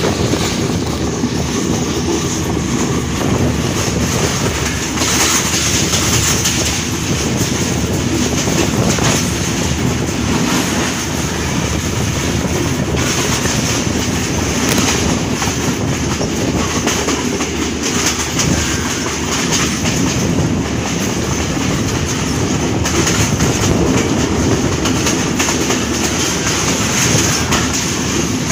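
Passenger train running along the line, heard from a carriage window: the steady noise of the wheels running on the rails.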